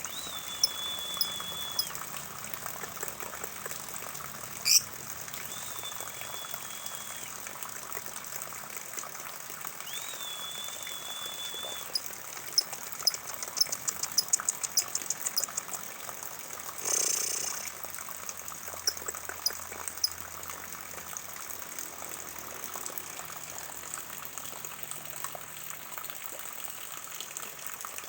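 Rainwater running off a roof and splashing steadily. A high, steady whistle of about a second and a half comes three times in the first half, and a quick run of clicks follows in the middle.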